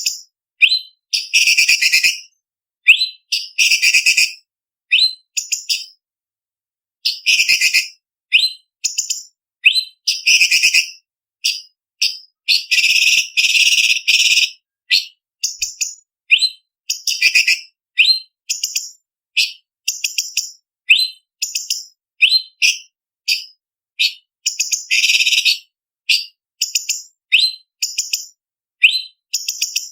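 Orange-bellied leafbird (cucak cungkok) singing: a rapid string of short, high whistled notes with brief gaps, broken several times by harsher, rasping phrases a second or two long, the longest about halfway through.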